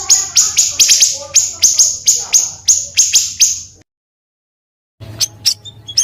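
Small songbird giving rapid harsh chipping bursts, about five a second, the 'tembakan kasar' prized in song-training recordings. The recording cuts to dead silence near four seconds in; after about a second a different series of sharp, spaced chirps begins.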